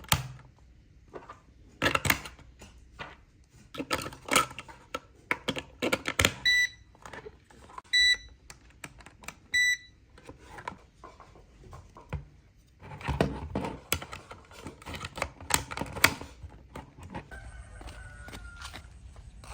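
Three short electronic beeps of one steady pitch, about a second and a half apart, among irregular clicks and knocks from hand work.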